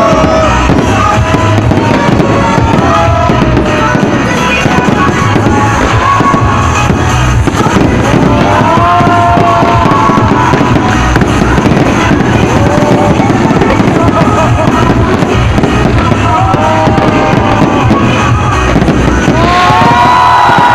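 A fireworks display going off in a continuous dense barrage of bursts and crackle, loud throughout, with music playing alongside.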